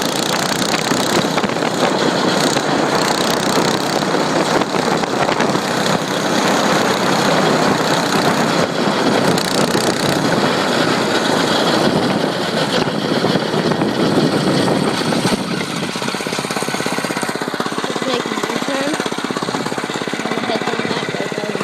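Dirt bike engine running hard under way, a fast even pulsing, easing off a little about three quarters of the way through.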